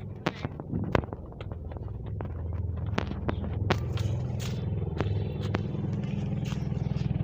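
Sikorsky S-92A twin-turbine helicopter running, a steady low drone that grows slightly louder, with scattered sharp clicks over it.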